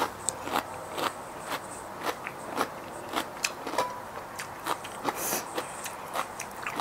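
Close-up chewing of a mouthful of raw salmon salad: wet mouth clicks and smacks, about two a second.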